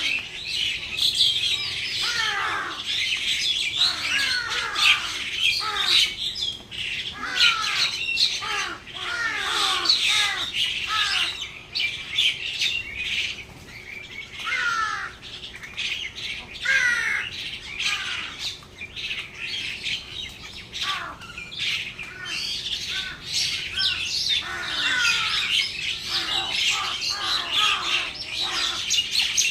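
A flock of birds chattering and squawking, many short downward-sliding calls overlapping with no pause.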